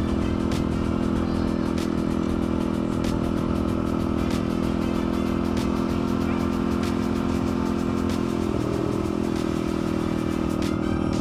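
Dirt bike engine running at a steady speed while riding, with small clicks and rattles over the rough ground.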